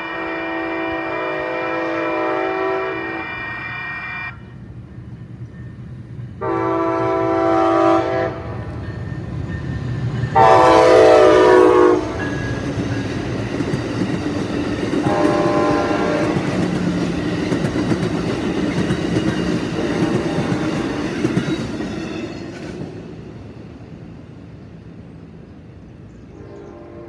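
Amtrak passenger train's horn sounding four blasts as it nears the crossing: one long, then three shorter, the third the loudest. This is the grade-crossing warning signal. The train then rolls past with a steady rumble and wheel clatter that fades away after about 22 seconds.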